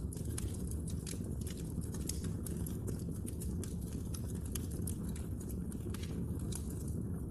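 Wood fire burning with a steady low rumble and frequent sharp crackles and pops, several a second.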